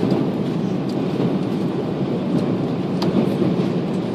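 Steady engine and airflow noise heard inside the cabin of an Airbus A340-600 climbing after takeoff, with its four Rolls-Royce Trent 500 engines at climb power. There is a faint click about three seconds in.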